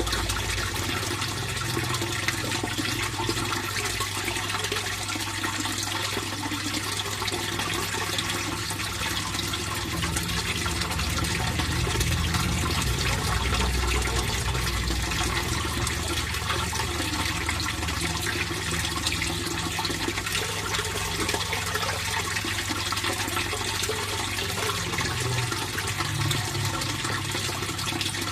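Steady flow of water in a fish pond, an even continuous rush with a low rumble underneath.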